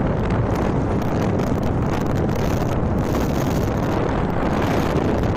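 Wind buffeting a phone's microphone held out of the window of a moving van, over steady road and engine noise.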